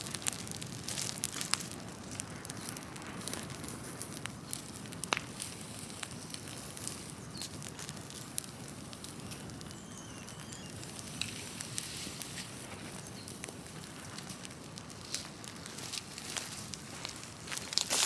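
Large open fire of cut trees and brush burning, with a steady rushing sound and scattered sharp pops and crackles from the wood.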